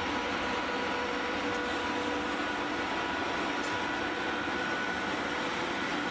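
Freight train running steadily: an even rumble and rushing noise with a faint constant whine.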